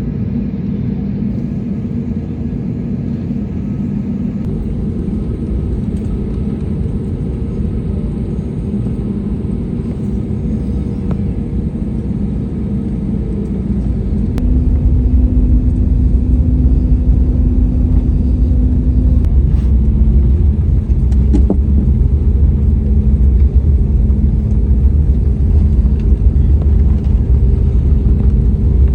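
Airliner cabin with a steady engine hum and rumble. About halfway through, the engines spool up and a much louder, deep rumble sets in: the takeoff roll beginning.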